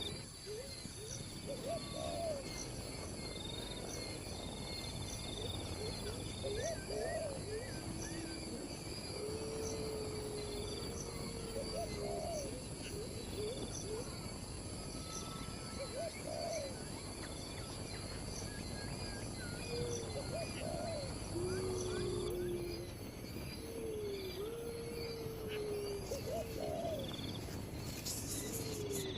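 A steady high-pitched insect chorus with a string of short, low hooting calls every second or two, some rising at the end and some held level. Part of the insect drone drops out about three quarters of the way through.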